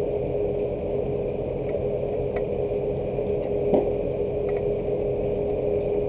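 Rain falling, heard as scattered light drop ticks over a steady machine hum that holds one constant tone. One brief louder knock comes a little over halfway through.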